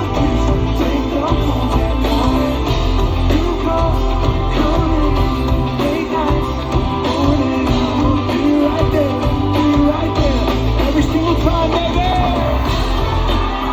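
Pop band playing a song live, with singing over a strong bass line.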